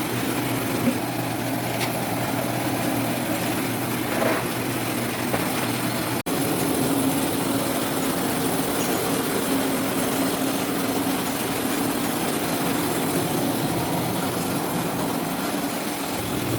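Orange sorting machine running with a steady mechanical rumble and hum; the sound cuts out for an instant about six seconds in.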